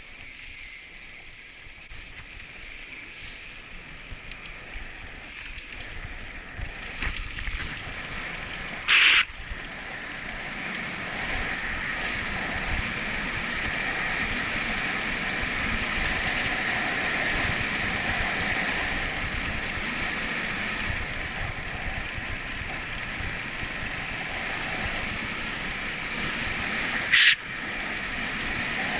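Wind rushing over the microphone and tyres rolling on the road as a bicycle gathers speed downhill; the rush grows steadily louder over the first twelve seconds or so, then holds. Two short, sharp bursts stand out, about nine seconds in and again near the end.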